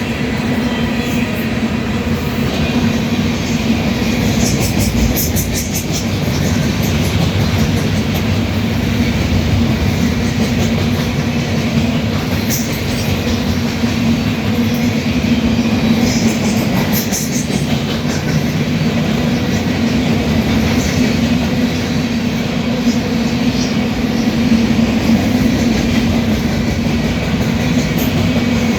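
Freight train of empty soybean cars rolling past with a steady, loud rumble. Clusters of sharp clicks from the wheels over the rail joints come now and then.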